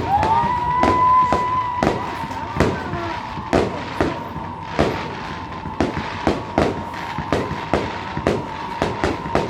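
Fireworks going off in a fast, uneven string of sharp bangs, about two or three a second, over a high, steady screaming whistle that rises at the start and then holds.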